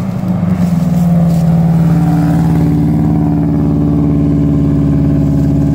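Subaru WRX's turbocharged JDM EJ205 flat-four engine as the car drives past close by, holding steady revs. The engine note grows louder about half a second in and then stays even.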